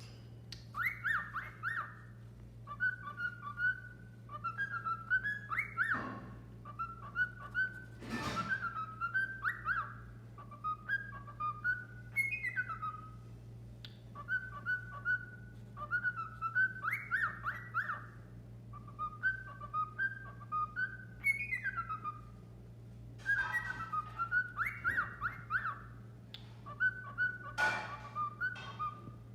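Pet bird whistling: short phrases of clear, sliding whistles repeated over and over with brief gaps, over a steady low hum.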